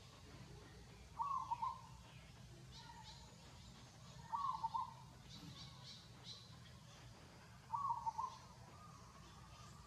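A short animal call, repeated three times about three seconds apart, with faint high chirps in between.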